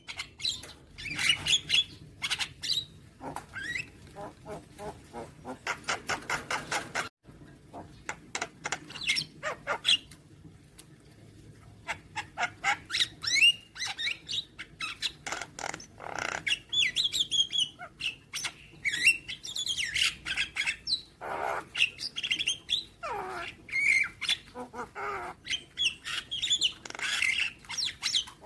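Javan myna (jalak kebo) calling in a varied run of chirps, harsh squawks and clicks. A fast clicking rattle comes about six seconds in, and several falling whistles near the end.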